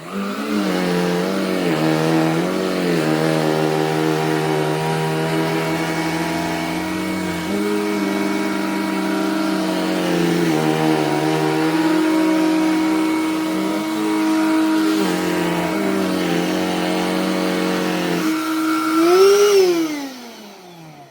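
Black+Decker Dustbuster cordless handheld vacuum running as it sucks up shed dog hair. Its motor whine shifts in pitch several times as the nozzle is worked. Near the end the pitch rises briefly, then falls away as the motor is switched off and spins down.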